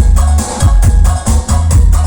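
Electronic dance music with a heavy, booming bass and a steady beat, played loud through a large event sound system.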